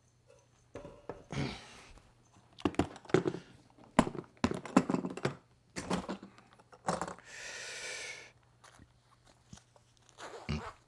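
Things being picked up and handled on a table: a run of knocks and clicks, with about a second of rustling, like a bag or wrapping, two-thirds of the way through.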